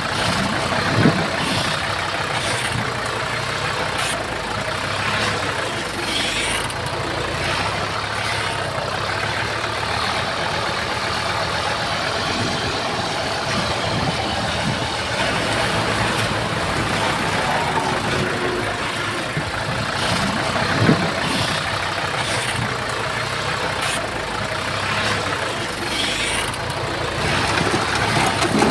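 Heavy diesel earthmoving machinery running steadily, with two sharp metallic knocks: one about a second in and another about two-thirds of the way through.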